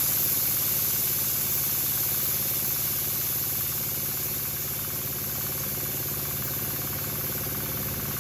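A steady hiss over the low hum of an idling engine, slowly getting quieter.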